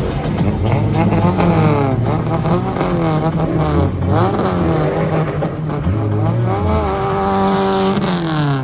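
Drift car engine revving hard and loud, its pitch climbing and dropping again and again as the throttle is worked.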